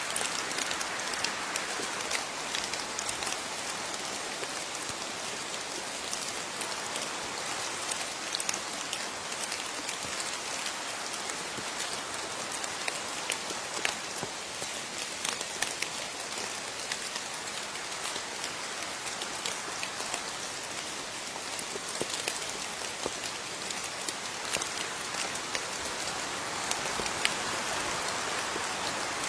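Steady rain falling on a surface, with many separate drops heard as scattered sharp ticks over the even patter.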